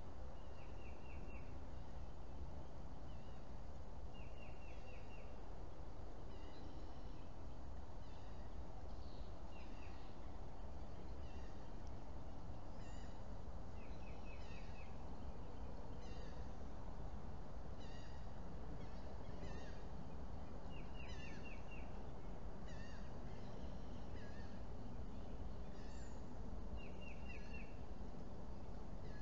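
Several wild birds calling over a steady hiss and low rumble. One bird repeats a quick run of four or five short notes every few seconds, and other chirps come in between.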